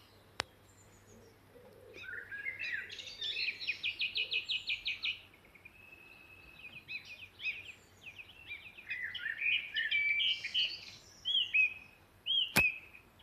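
Small songbirds singing in several short phrases, one of them a fast trill of rapidly repeated high notes. There are two sharp clicks, one at the start and a louder one near the end.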